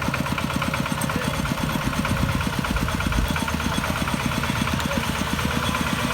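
Kubota DC-70 Plus combine harvester's diesel engine running steadily with a rapid, even beat, mixed with the clatter of the machine.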